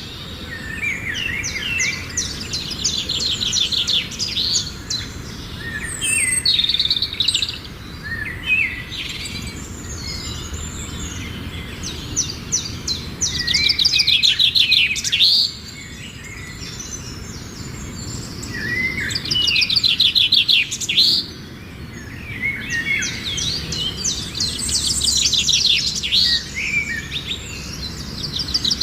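Songbird singing: high-pitched phrases of rapid trilled notes, each lasting a second or two, repeated about five or six times with short pauses between.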